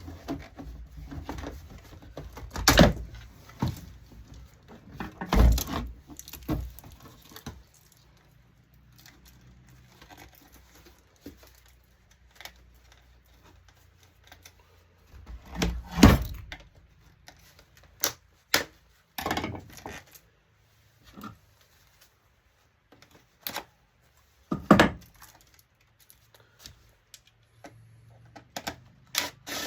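Irregular knocks, clunks and clatter of a heavy LCD touchscreen monitor's plastic and metal casing and parts being handled and pried apart by hand, the loudest knocks about 3, 5 and 16 seconds in and near 25 seconds.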